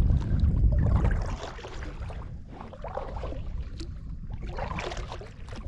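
Kayak moving on the water: a low rumble, loud for about the first second, then dropping to a quieter steady hiss.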